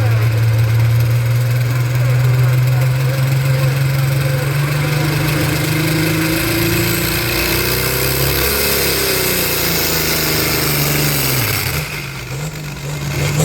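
Tractor-pull engine running hard at high, steady revs, then its pitch wavers and falls over the last few seconds as the engine slows.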